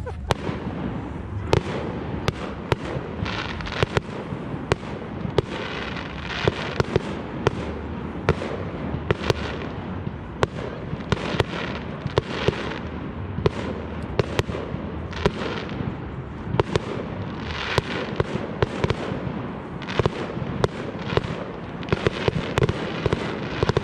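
Fireworks going off in quick succession: sharp bangs several times a second over a steady crackle.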